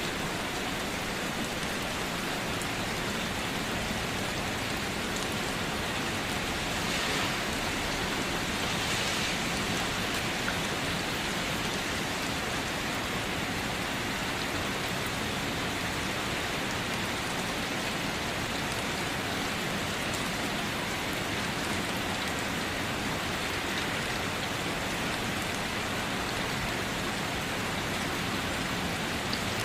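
Steady rainfall, an even hiss of rain on a surface with scattered small drop ticks.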